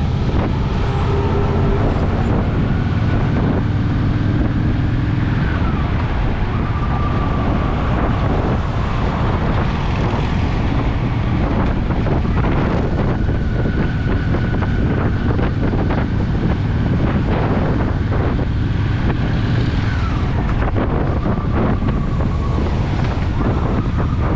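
Honda Shadow VT750's V-twin engine running steadily while riding, under heavy wind buffeting on the microphone.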